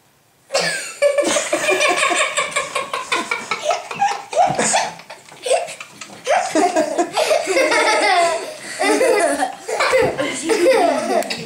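People laughing hard and loudly in long fits, starting about half a second in, with a short lull near the middle.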